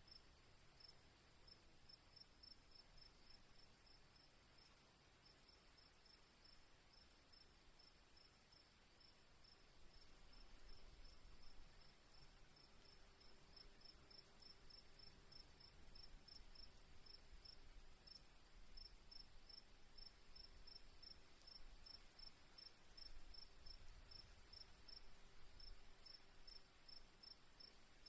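Crickets chirping: a steady high trill under a regular pulse of short chirps, about two to three a second. A faint low rumble swells and fades twice underneath.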